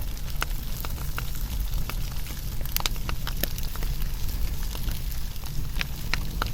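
Wood fire burning, with frequent irregular sharp crackles and pops over a low steady rumble.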